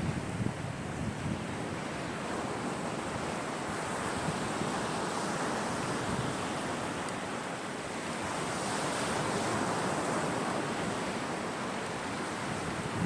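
Caspian Sea surf washing steadily onto the shore, with one wave swelling louder about eight seconds in and then easing off. Wind blows across the microphone.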